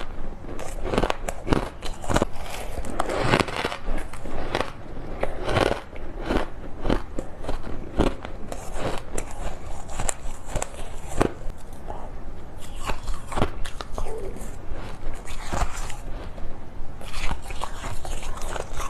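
Ice being bitten and crunched close to the microphone: a dense, irregular run of sharp crunches and crackles.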